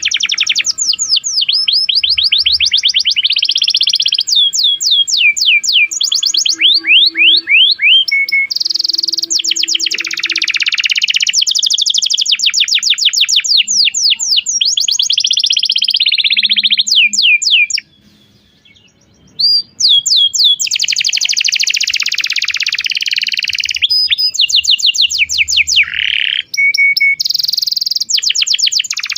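Domestic canary singing a long, continuous song of rapid trills and repeated sweeping chirps, breaking off briefly about two-thirds of the way through.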